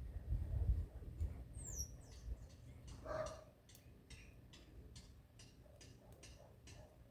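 Birds calling: a couple of thin, high falling chirps, a short, lower, harsher call about three seconds in, then a run of short, high chips at roughly two a second. A low rumble sits under the first second.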